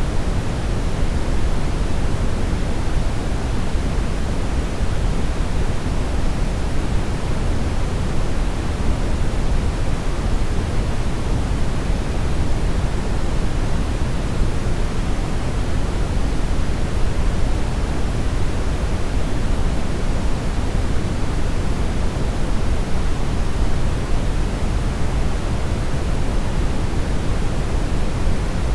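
Brown noise: a steady, unbroken rushing hiss, deepest in the low end and thinning toward the highs, with no changes or events.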